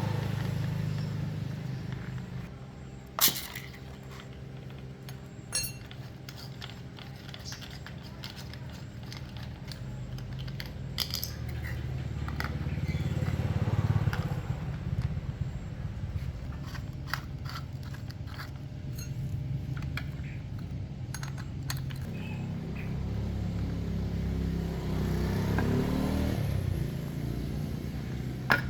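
A low, steady machine hum in a workshop, with scattered sharp metallic clicks and scrapes, the loudest about three seconds in; near the end a pitch rises briefly.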